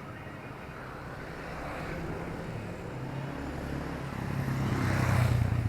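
Street traffic: a motor vehicle's engine hum, low and steady, growing louder as it passes close and loudest about five seconds in.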